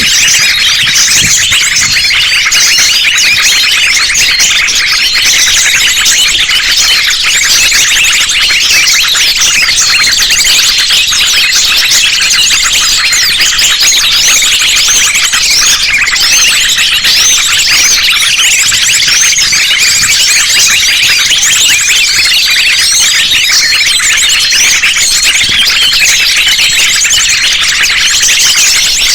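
Dense, loud chorus of many small birds chirping and twittering at once, sunbirds among them, in a layered bird-lure recording; high, quick calls with no break.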